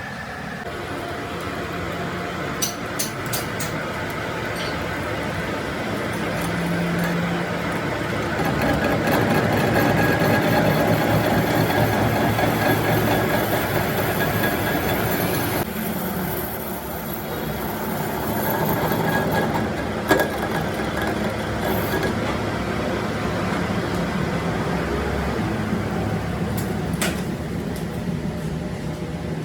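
A workshop machine runs steadily with a rough, rattling noise and a low hum, growing louder for a stretch in the middle, with a few sharp metallic clicks.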